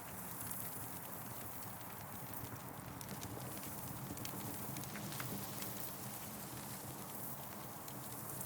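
Campfire burning, with irregular sharp crackles and pops over a steady hiss and rumble of flames.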